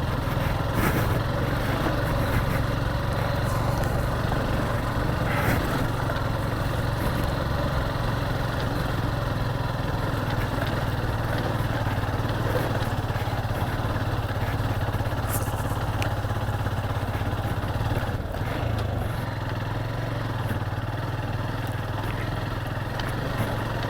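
Motorcycle engine running steadily at low speed while riding, with a low even engine note and rough road noise.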